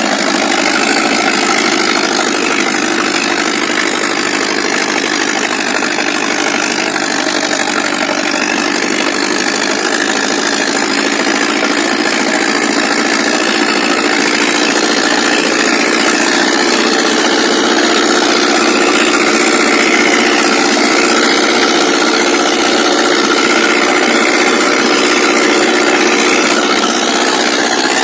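Ace 6565 tractor's diesel engine running steadily and hard, under the load of pulling three harrows.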